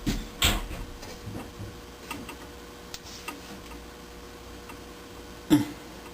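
Small clicks and taps of wire connectors and terminals being handled and pushed together while wiring a furnace pressure switch, with a louder knock near the end.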